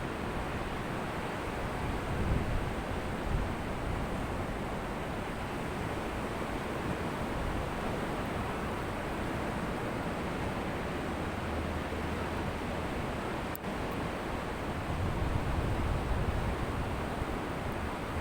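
Ocean surf: waves breaking and washing up a beach as a steady rush, with a deeper surge twice. A brief click about three-quarters through.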